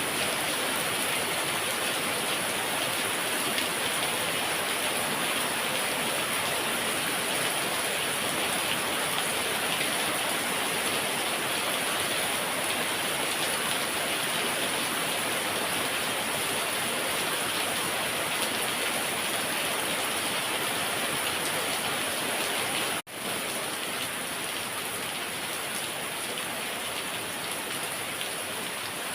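Heavy rain falling steadily, a dense even hiss of drops on surfaces, cut by a momentary gap about three-quarters of the way through.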